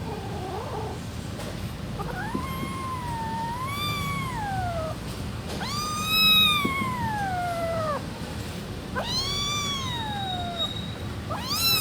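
Kitten meowing: three long drawn-out meows, each rising then sliding down in pitch, with a fourth starting near the end.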